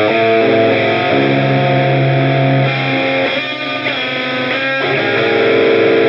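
Electric guitar played through an Olinthus Cicada, a Tube Screamer-style overdrive pedal, giving a punchy, lightly saturated tone. Overdriven chords and notes ring out, with a short choppier stretch in the middle.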